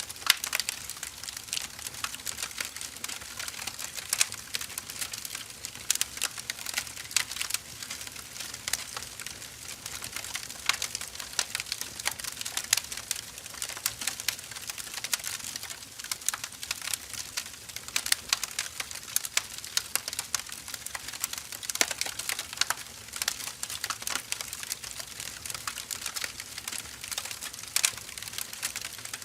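Wood fire burning with a continuous run of irregular sharp crackles and pops over a soft hiss.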